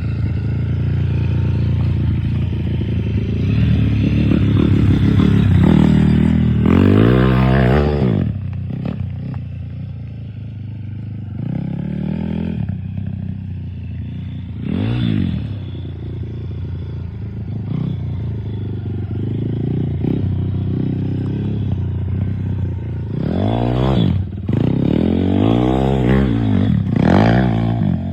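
Dirt bike engine running and revving, its pitch rising and falling again and again, with the strongest revs a few seconds in and again near the end.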